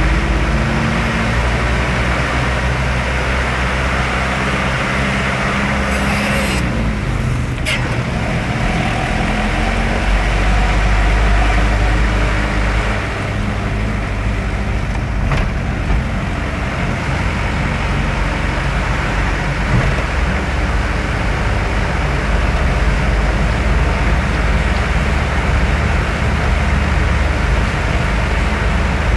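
Road traffic: a heavy vehicle's engine running steadily under continuous tyre and road noise, with a brief passing swish about six to eight seconds in.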